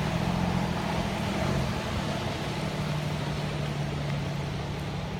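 Steady city background noise: a low, even mechanical hum with a haze of traffic sound.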